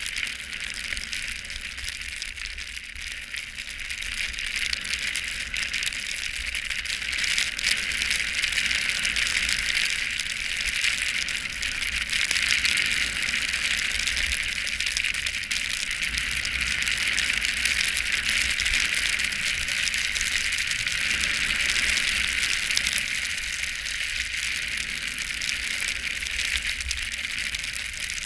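Steady hiss and scrape of sliding down a snowy ski slope, edges running over the snow. It grows louder about four seconds in and eases near the end, with a low rumble of wind on the microphone underneath.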